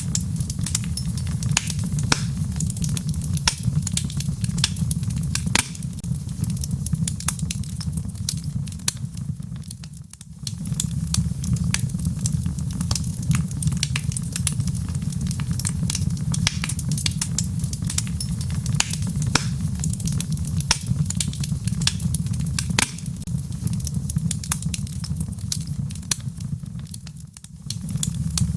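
Logs burning in a fireplace: a steady low rumble of flame with frequent sharp crackles and pops. The sound dips briefly twice, about ten seconds in and near the end.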